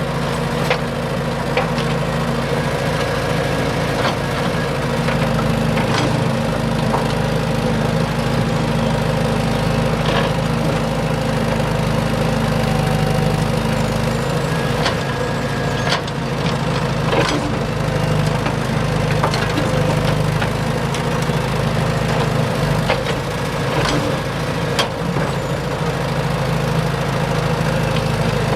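A small engine running steadily at an even speed, with scattered sharp clicks and knocks over it.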